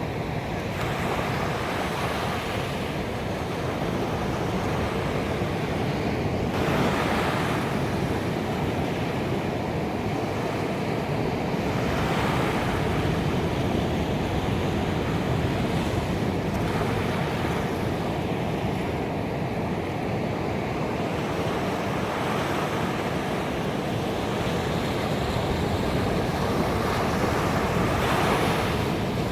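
Ocean surf washing onto a beach: a continuous rush of water that swells every few seconds as waves break.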